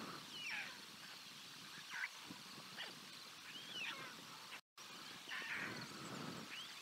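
Faint short chirping bird calls, about six, each rising and falling, roughly a second apart, over a light outdoor hiss. The sound drops out completely for a moment about two-thirds of the way through.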